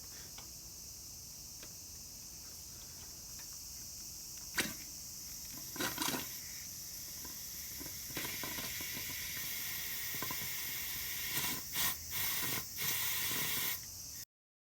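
Steady high hiss with scattered short knocks and clatters, cutting off abruptly near the end.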